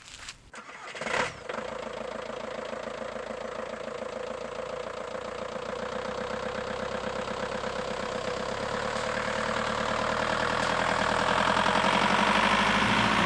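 Camper van's engine starting about a second in, then running with a steady beat, slowly getting louder.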